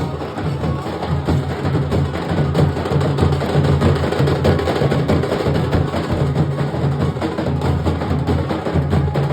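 Nasik dhol drumming: a band of dhols playing a fast, dense, continuous beat with deep booming drum tones under sharp, crisp strikes.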